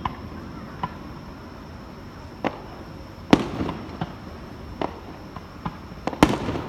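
Fireworks display shells bursting: a series of sharp booms and cracks at irregular intervals, about ten in all, the loudest a little past halfway and several close together near the end.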